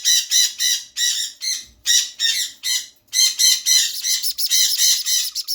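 A two-week-old sun conure chick is calling: a rapid series of short, high-pitched chirps at about four a second. There is a brief pause about three seconds in, and then the chirps come quicker.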